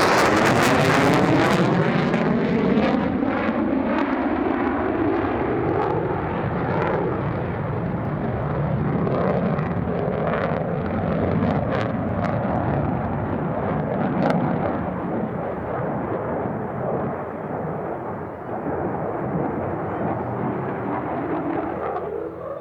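F-35A Lightning II jet fighter passing close by, its single afterburning turbofan's roar falling in pitch as it goes past. The loud jet noise then carries on steadily, easing only slightly.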